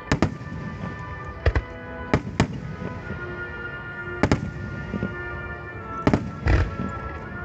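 Starmine fireworks: aerial shells bursting with sharp booms every second or two, some in quick pairs, over music playing throughout.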